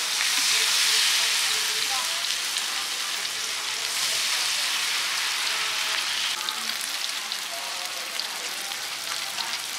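Mussel omelette batter and mussels frying in hot oil on a large flat pan, a steady sizzle. The sizzle swells about four seconds in as more batter is poured from the ladle onto the oil.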